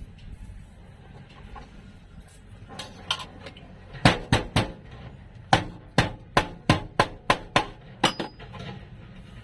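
Hammer striking sheet metal on a car floor pan being repaired: a few light taps, then three hard blows about four seconds in, then a steady run of about eight blows, three or four a second.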